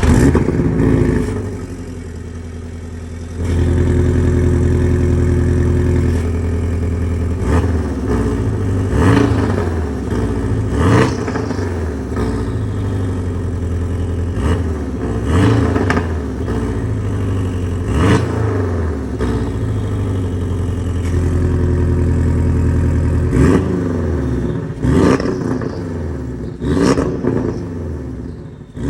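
Porsche 718 S's 2.5-litre turbocharged flat-four, with aftermarket downpipes and the exhaust valves forced open, flaring loudly as it starts, settling, then revved repeatedly in quick blips that rise and fall, with a couple of longer steady holds.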